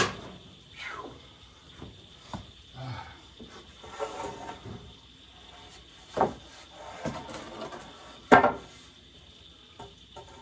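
Knocks and clatter of lumber and tools being handled, with three sharp thumps, the loudest about two-thirds of the way in, amid softer shuffling.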